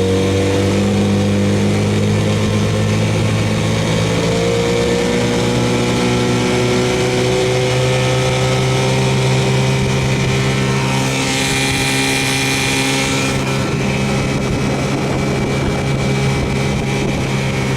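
A 1968 Evinrude 6 hp two-cylinder two-stroke outboard running under way, its pitch rising slightly at first as it picks up speed and then holding steady. A hiss rises over it for about two seconds in the middle.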